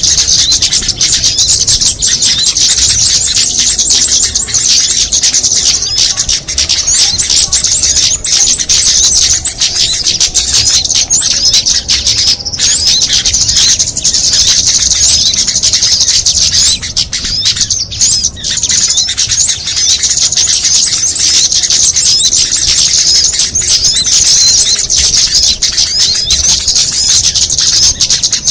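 A dense, unbroken chorus of high, fast chirps and twitters from many small songbirds layered together: a bird-lure (pikat) recording made to draw in small birds.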